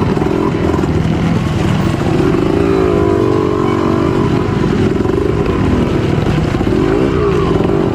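Trail motorcycle engine running loud and steady under the rider, its pitch rising and falling with the throttle around the middle and again near the end.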